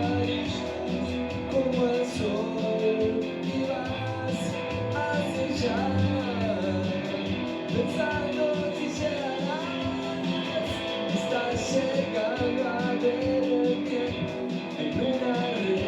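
Live indie rock band playing an instrumental passage: guitars over drums and cymbals, with a lead line that slides in pitch, recorded from the room.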